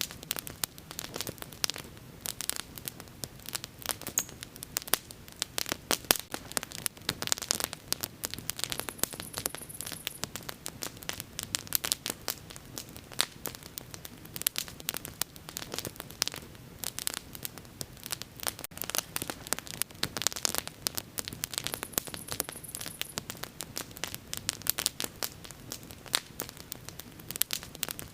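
Wood bonfire burning, with dense, irregular crackling and frequent sharp pops over a soft low hiss of the flames.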